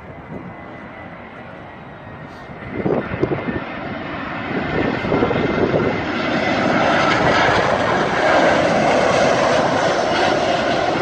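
Airliner's engines on landing approach, a rushing roar that grows steadily louder over several seconds as the plane comes in low over the runway end.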